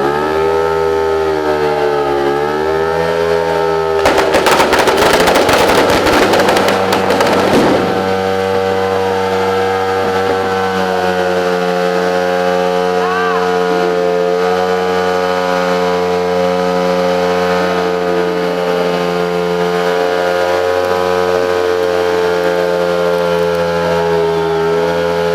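Ducati stunt motorcycle's engine held at steady high revs, as in a burnout, with a brief dip in pitch about two seconds in. A loud crackling noise lies over it from about four to eight seconds in.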